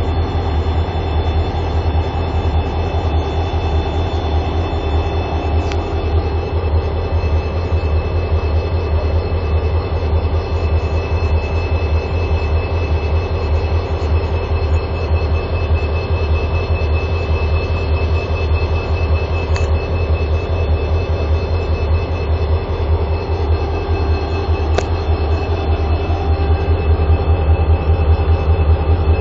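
Diesel-electric freight locomotives running steadily with a heavy low throb and a steady high whine, growing a little louder near the end.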